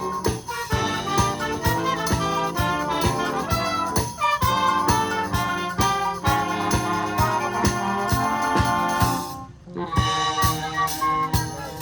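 Youth wind band playing live, brass and woodwinds over a steady percussion beat. The band breaks off briefly about nine and a half seconds in, then comes back in together.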